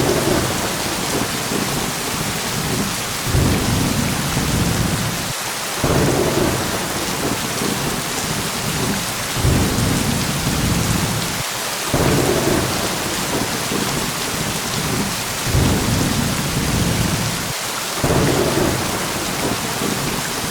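Steady heavy rain hissing, with low rolls of thunder swelling up every few seconds.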